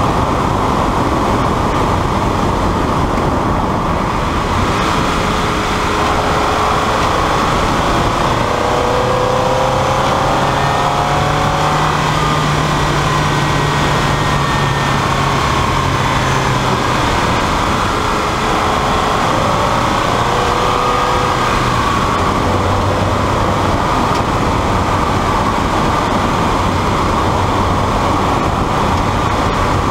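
Onboard sound of a 1999 Mazda Miata's 1.8-litre four-cylinder engine under way at about 45–55 mph, with loud, constant wind and road noise. The engine note rises through the middle, holds, then falls again.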